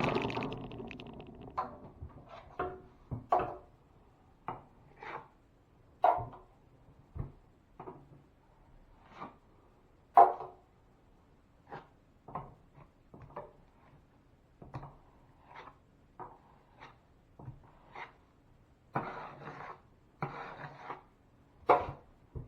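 Irregular taps, knocks and short scrapes of hand tools working on drywall. There is a loud knock at the start and another about ten seconds in, and two longer scrapes near the end.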